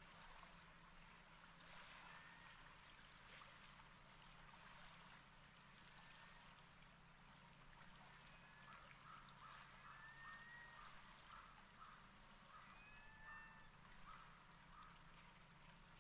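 Near silence: a faint hiss of calm sea over a low steady hum. In the second half come faint distant bird calls, a run of short repeated notes about two a second and a few thin whistles.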